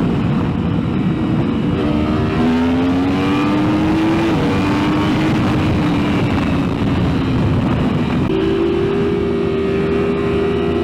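Yamaha R1M superbike with a full aftermarket exhaust, intake stacks and a stage 2 tune, its engine pulling hard under throttle. The engine note climbs for about two seconds, holds steady, then steps up in revs about eight seconds in.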